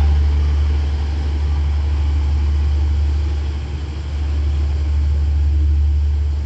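Passenger train departing and rolling away from the platform, its carriages running on the rails over a continuous low rumble.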